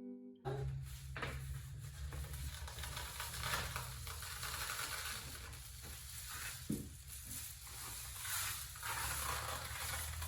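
Homemade rain stick being tipped: rice trickling down the tube through crumpled foil inside, a steady soft rushing patter.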